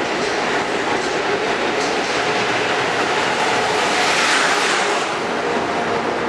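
Amtrak Acela Express trainset passing close by at speed: a continuous rush of steel wheels on rail and air. It is loudest just after four seconds in, as the rear power car goes by, then eases.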